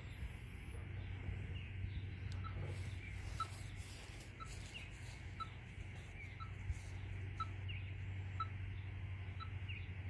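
A bird scolding, the calls of an irritated bird: short, evenly spaced chip notes about once a second, with an occasional higher sliding note between them. A steady low hum runs underneath.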